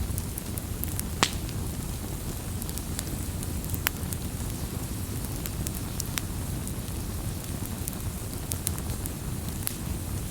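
Campfire burning with a steady low rumble and irregular sharp crackles and pops from the wood, the loudest pop about a second in and another near four seconds in.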